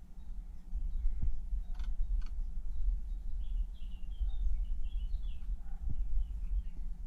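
Small birds chirping, a run of short high calls from about halfway through, over a steady low rumble on the microphone. Two short clicks come about two seconds in.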